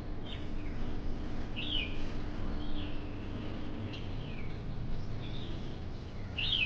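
Birds chirping outdoors: short, separate calls about once a second, over steady low background noise.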